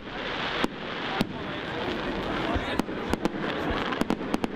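Fireworks display: aerial shells bursting overhead in a string of sharp bangs at irregular spacing, coming faster near the end.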